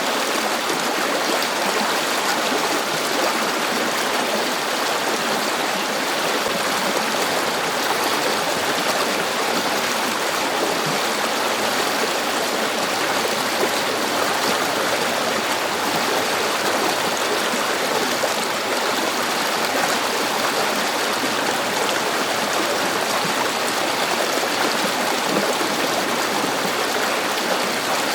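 A river flowing steadily, its rushing water an even wash of sound with no breaks.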